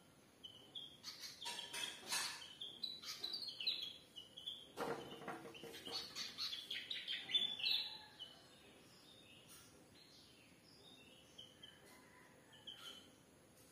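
Small garden birds chirping: many quick, high, repeated notes for about the first eight seconds, then only occasional short chirps.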